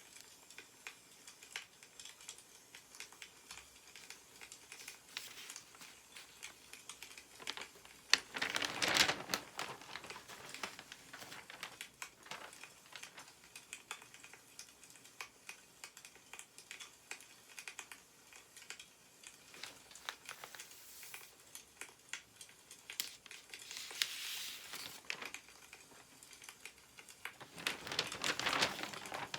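Newspaper pages rustling as they are turned and handled, in three louder bursts: about eight seconds in, around twenty-four seconds, and near the end. Faint scattered ticks and clicks come in between.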